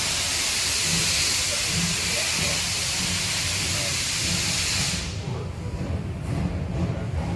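Steam locomotive letting off steam in a steady loud hiss that cuts off suddenly about five seconds in, leaving a low rumble.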